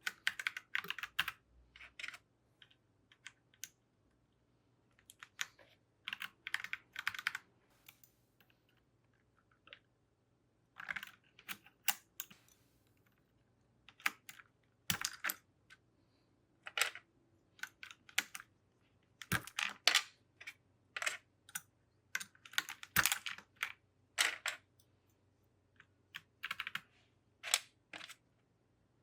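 Mechanical keyboard keys clicking in short, irregular bursts of keystrokes with brief pauses between them.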